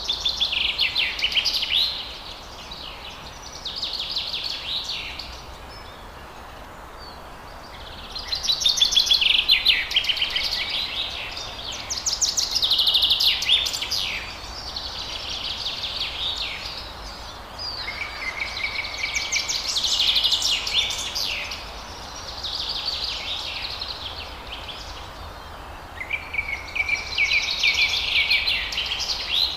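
Forest songbird singing a run of fast, trilled phrases, about eight of them with short pauses between, two of them opening on a held whistled note, over faint steady background hiss.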